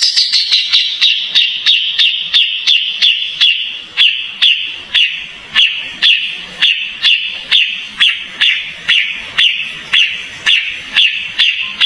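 Kapas tembak songbird calling a long, even run of short, sharp chirps, about two a second, each dropping slightly in pitch.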